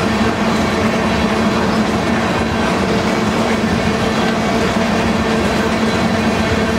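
Oil tank cars of a freight train rolling past close by: a steady rumble of steel wheels on rail, with a steady low hum running through it.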